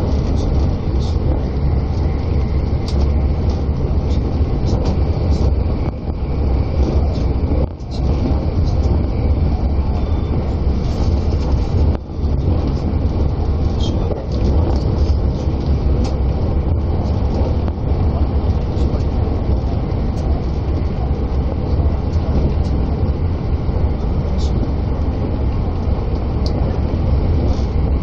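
Running noise inside the cabin of a moving electric limited-express train: a steady low rumble of wheels on rail, dipping briefly about 8 and 12 seconds in.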